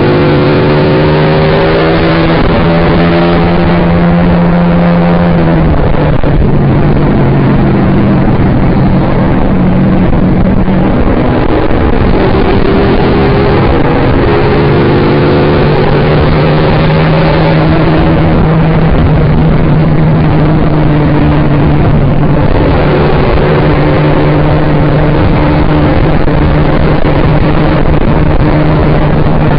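Yamaha R15 V3's single-cylinder engine running through an SC-Project aftermarket exhaust while riding. The revs climb and fall back several times, with a sharp drop about six seconds in, over constant rushing noise.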